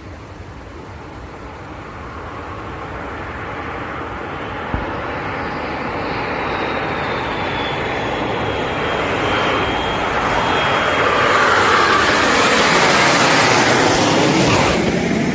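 Jet aircraft engine roar growing steadily louder as the aircraft approaches, with a high whine that falls slowly in pitch partway through.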